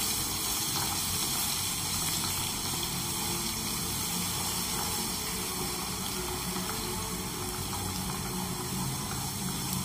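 Ginger-garlic paste sizzling steadily in hot oil in a kadhai, an even hiss of frying.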